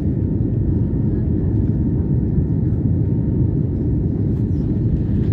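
Airliner jet engines and airflow heard from inside the passenger cabin during takeoff: a steady, deep rumble.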